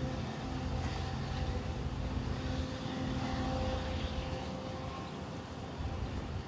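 A large engine running with a steady drone, a low rumble under a few held tones.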